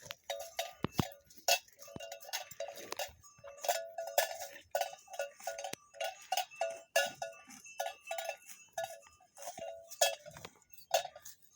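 Cowbells on cattle clanking irregularly, several strikes a second, each with a short metallic ring.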